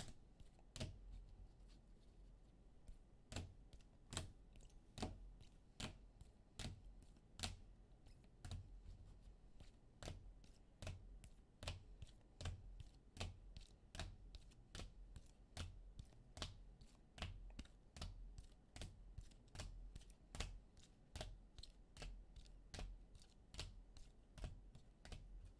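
Faint, irregular sharp clicks and taps on a desk, about one or two a second, over a low hum.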